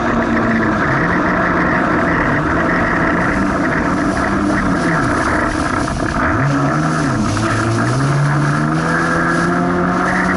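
Jet ski engine running under throttle, its pitch falling and climbing several times as the throttle is eased and opened again, with a sharp drop about five seconds in and a climb back up soon after. A steady rush of wind and water runs underneath.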